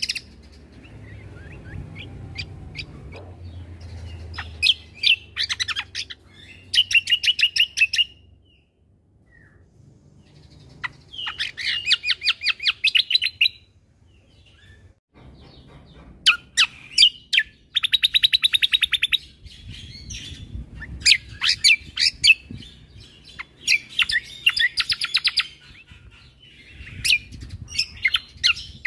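Cucak kombo (kecial kombo) songbird singing vigorously in repeated bursts of rapid trilled notes, each burst lasting one to two seconds, with short pauses between.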